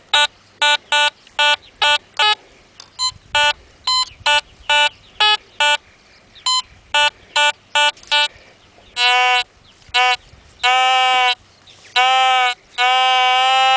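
Metal detector sounding off on a strong target signal: a quick run of short, evenly pitched beeps, then from about nine seconds in a few longer held tones, the last one steady through the end.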